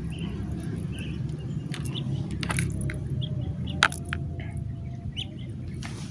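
Outdoor field ambience: a steady low rumble with scattered short high chirps and a few sharp clicks.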